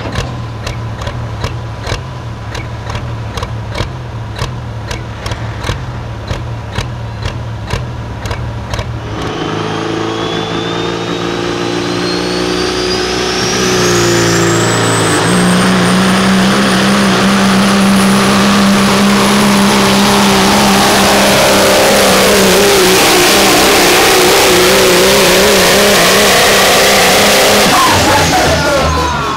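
Pulling truck's engine ticking over with sharp ticks about three a second, then opened up about nine seconds in. It runs loud at high revs with a high whine climbing in pitch, sags and recovers partway through the pull, and shuts off near the end.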